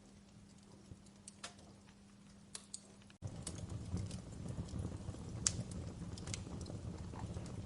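Wood fire in a fireplace crackling with scattered sharp pops. About three seconds in the sound cuts abruptly to a louder stretch with a low rumble of burning under the crackles.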